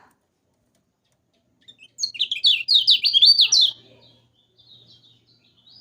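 Lemon-bellied white-eye (kecial kuning) singing: about two seconds in, a loud, rapid string of high notes, each sweeping downward. Softer twittering follows.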